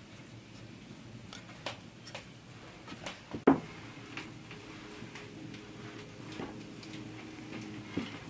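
Light, irregular taps and clicks of kitchen utensils and dishes, with one sharper knock about three and a half seconds in.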